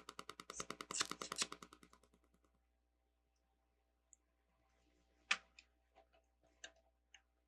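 Plastic LEGO bricks clicking. There is a rapid, even rattle of clicks for about two seconds as pieces are picked through, then a few separate sharp clicks of bricks being handled and snapped together near the end.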